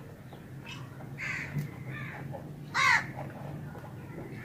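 A bird calling: a few short, harsh calls, the loudest just before three seconds in.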